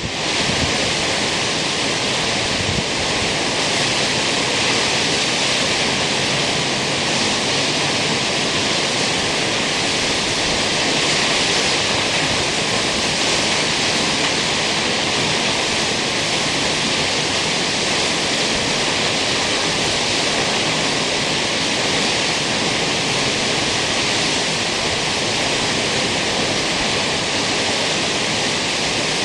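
Kegon Falls, a large waterfall, pouring steadily: an even, unbroken rush of falling water.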